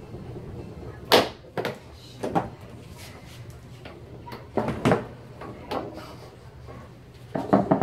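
Foosball play on a Tornado T-3000 table: sharp knocks and clacks as the ball is struck by the rod figures and hits the table walls. They come irregularly, with a quick flurry of hits near the end.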